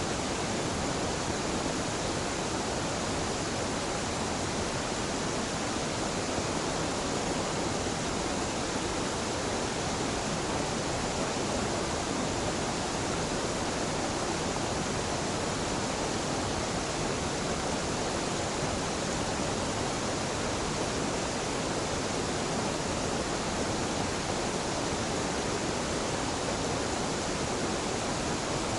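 Small waterfall and the stream below it, water pouring and rushing in a steady, unbroken roar-free hiss that does not change.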